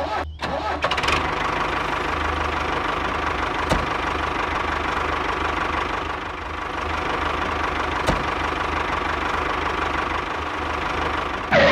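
Engine sound of the DIY miniature walking tractor running steadily, a dense knocking engine noise with a low rumble, settling in about a second in, with two faint clicks along the way.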